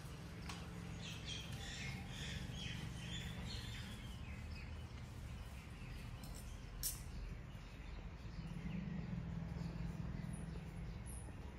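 Small birds chirping in short calls over a low steady rumble, with one sharp click about seven seconds in.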